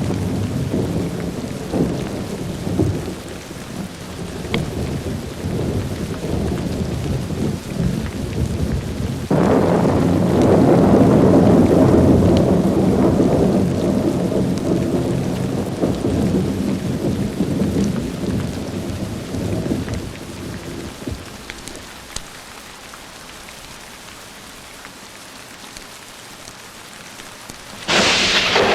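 Thunderstorm: steady rain with thunder rumbling. A long, heavy roll of thunder builds about a third of the way in and slowly dies away, leaving quieter rain, then a sharp crack of thunder breaks in near the end.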